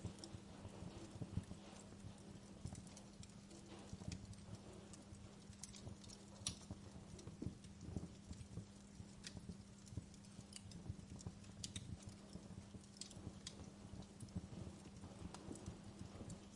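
Wood fire crackling quietly: irregular small pops and snaps from burning wood, over a faint steady low hum.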